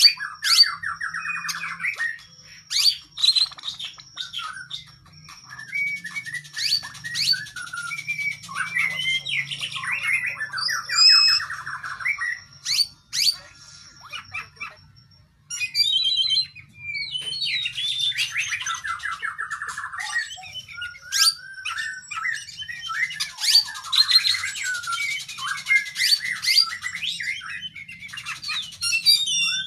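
Oriental magpie-robin (kacer) singing a long, varied song of whistles, rapid trills and sharp clicking notes, with a brief pause about halfway through.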